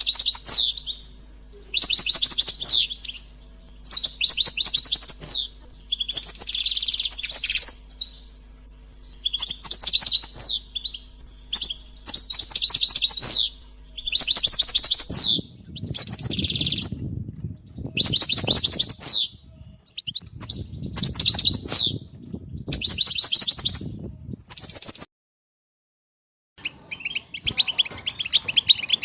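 European goldfinch song: repeated bursts of fast twittering trills, each about a second long with short pauses between them. A low rumble sits under the second half, and after a brief break near the end the twittering runs on without pauses.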